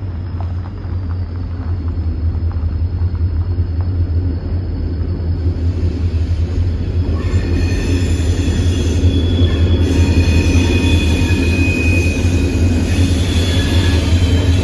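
Loaded coal train rolling past with a steady low rumble that grows louder. About seven seconds in, high-pitched steel wheel squeal joins and keeps on.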